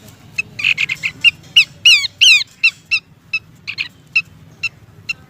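Pelanduk semak (Horsfield's babbler) calling: a fast chattering burst, then a few loud downward-slurred whistles, then a steady run of short sharp notes about two or three a second. The track is sold as a female's call to a male, used as a bird lure.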